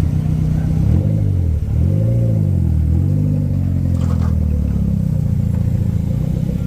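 Car engine running low and steady, with three quick throttle blips about a second apart in the first half, each pitch rising and falling back.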